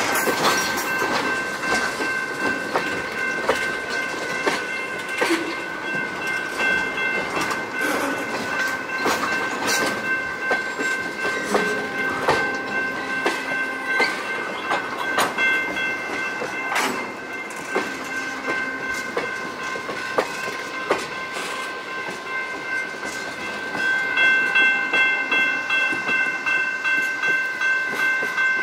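Loaded tank cars of a slow freight train rolling past, their wheels clicking and knocking over the rail joints. A steady high-pitched ringing tone sits over the train noise; it fades in the middle and comes back stronger near the end, pulsing about twice a second.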